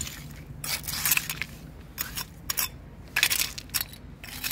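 Stones and pottery sherds clinking and crunching against each other on a stony foreshore, a scatter of short, sharp knocks with uneven gaps.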